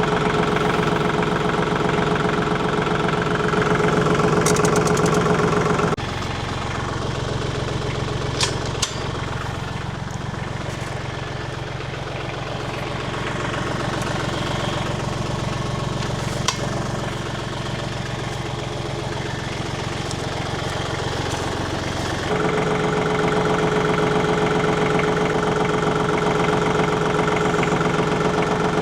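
Compact tractor engine running steadily. About six seconds in the sound switches abruptly to a lower, flatter hum, and it switches back about three-quarters of the way through, with a few sharp clicks in between.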